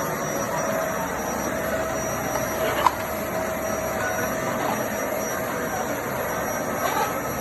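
Vacuum cleaner running steadily with a constant whine, with a single sharp click about three seconds in.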